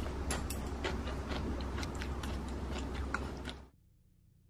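Close-up crunchy chewing of aged kimchi and cucumber in cold noodles: many small crisp crunches over a steady low hum. It cuts off suddenly about three and a half seconds in, leaving near silence.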